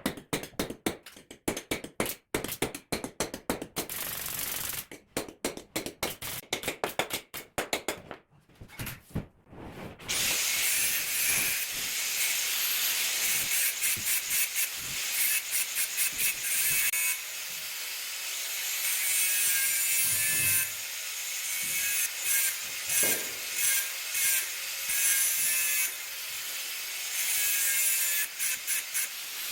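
Workshop tool work on a steel rod: a fast, irregular run of sharp clicks and strikes for about ten seconds, then a power tool running with a steady harsh hiss, dipping briefly a few times.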